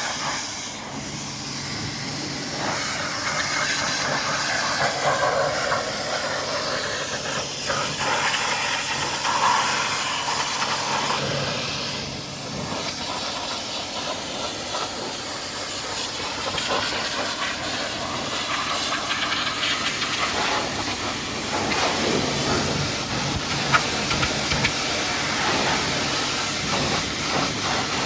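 High-pressure washer jet spraying a dirty truck: a steady hissing rush of water whose tone shifts as the spray moves over the surface.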